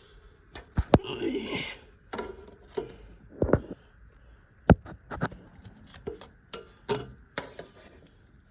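Irregular sharp clicks and light knocks, about a dozen, with a short rustle about a second in.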